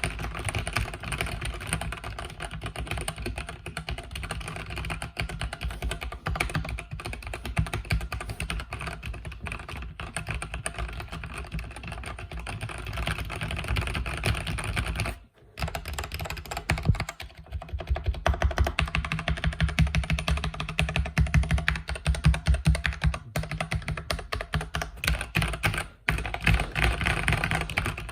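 Continuous fast typing on a mechanical keyboard with red (linear) switches: a dense stream of key clacks, broken by short pauses about 15 and 26 seconds in.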